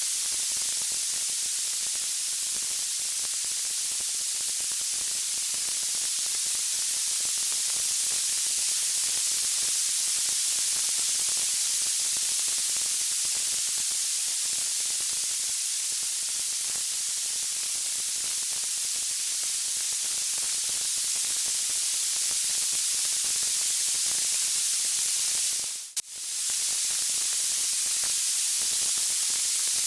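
Steady, bright white-noise hiss, strongest in the high frequencies, with no separate crackles or pops. It drops out for a split second about 26 seconds in.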